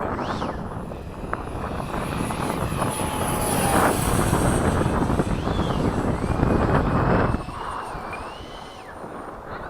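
Electric ducted fan of an FMS 70 mm F/A-18 RC jet whining in flight, its pitch rising and falling with throttle and passes. It grows louder from about three seconds in and drops away suddenly at about seven seconds, with wind rumble on the microphone underneath.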